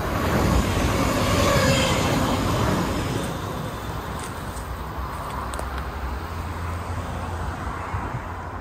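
A train passing by on the line. The rolling rumble swells to its loudest within the first few seconds, then slowly fades away.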